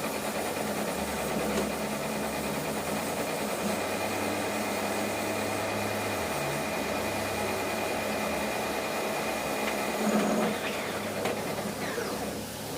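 Metalworking lathe running with a steady motor hum carrying a few held tones. About ten seconds in it briefly gets louder.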